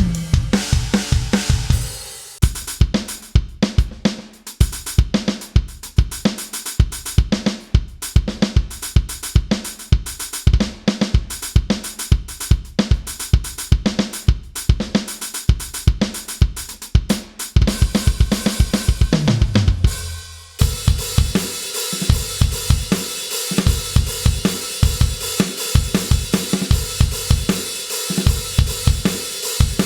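KAT Percussion KT4 electronic drum kit played as a steady beat of kick, snare, hi-hat and cymbals, heard through its sound module. A tom fill runs down in pitch just before twenty seconds. The sound changes about two seconds in and again just after twenty seconds, as a different preset kit comes in with more cymbal wash.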